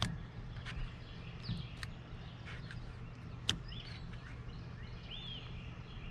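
Outdoor ambience: a few short bird chirps over a low steady rumble, with scattered sharp clicks, the loudest about halfway through.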